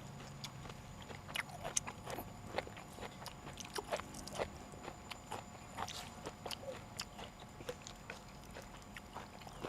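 Close-miked chewing and crunching of food, with many short, sharp mouth clicks and smacks.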